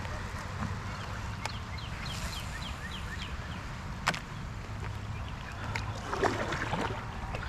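Steady low rumble of a fishing boat on the water. About a second and a half in, a bird gives a quick run of about eight falling chirps. A sharp click comes about four seconds in, and a louder splash-like rustle follows near the end.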